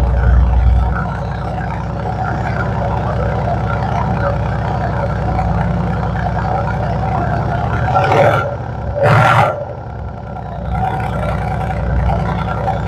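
Mercedes-AMG E63 S twin-turbo V8 running at a steady idle just after a cold start, a deep, even drone. Two short loud bursts of noise cut in about eight and nine seconds in.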